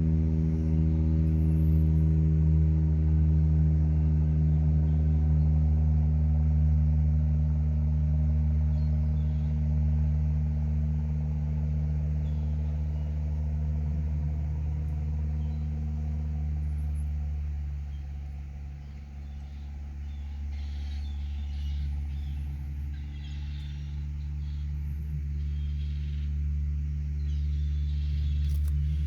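Steady low machine hum made of several even tones, dipping slightly in level about two-thirds through, with faint bird calls in the last third.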